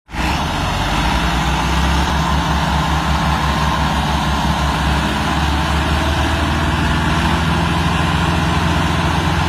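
Tractor diesel engine running steadily at low speed, a loud, even low-pitched engine note.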